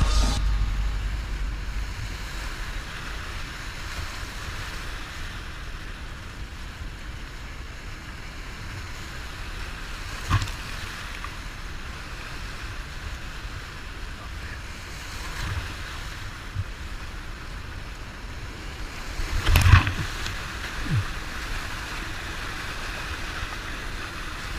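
Water washing around a kayak, with wind rumbling on the microphone. A sharp knock comes about ten seconds in, and a louder one just before twenty seconds.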